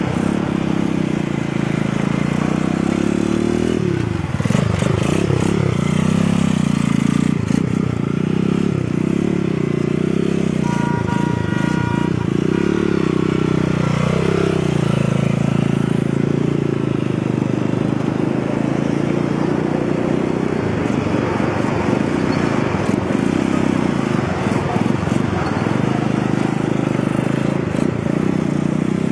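A vehicle engine running continuously, its pitch wavering, with a brief dip and recovery about fourteen seconds in. A short single beep sounds about eleven seconds in.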